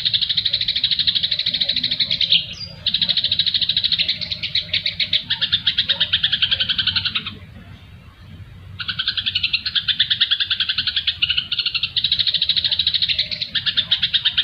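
Recorded songbird calls: a combination of cucak jenggot, fighting sparrows (gereja tarung) and siri-siri. Dense, rapid, rhythmic chattering chirps, briefly dropping out about two and a half seconds in and pausing for about a second and a half near the middle.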